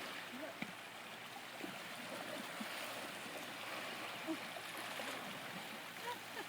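River water running in a steady, faint rush.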